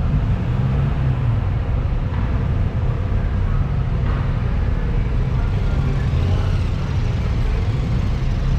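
Steady, loud, low engine rumble with a constant noise haze above it.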